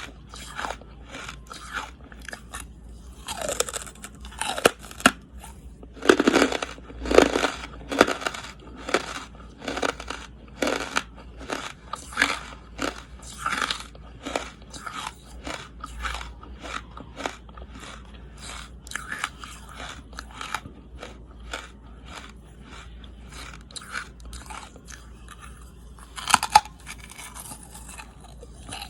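A person biting and chewing charcoal, close to the microphone: a steady run of crisp crunches, two or three a second, with louder bites a few seconds in and a sharp one near the end.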